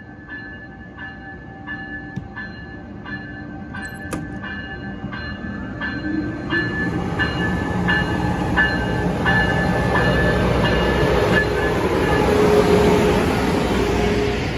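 Amtrak Acela Express train arriving at a station platform, its power car's bell ringing in even strikes about twice a second. From about six seconds in, the rumble of the train grows louder as the power car passes close, with a steady hum over it.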